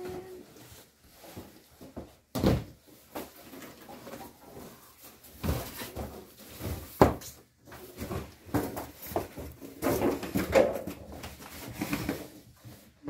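Irregular knocks, bumps and clatter of things being handled, with a sharp knock about two and a half seconds in and another about seven seconds in.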